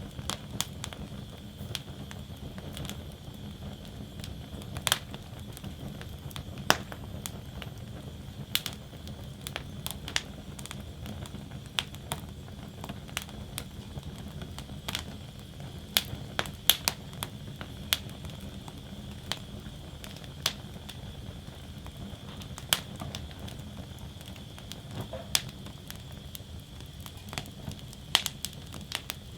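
Wood fire burning in a metal fire basket: a steady low rush of flames with irregular sharp crackles and pops of burning wood, a few of them louder.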